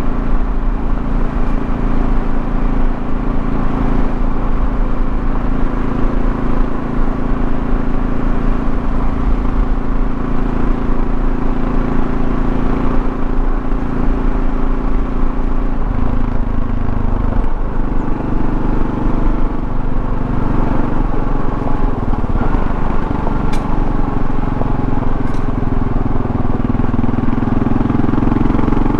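2024 Kawasaki KLR650's 652 cc single-cylinder engine running under way, with wind and road noise. Its note shifts and dips a little past halfway, then climbs steadily toward the end.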